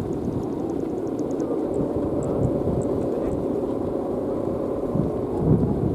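Strong wind buffeting the microphone: a dense low rumble that rises and falls in gusts, loudest about five and a half seconds in.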